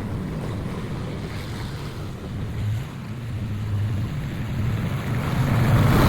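Lawn mower engine running steadily under a rushing noise of wind on the microphone, which swells louder near the end.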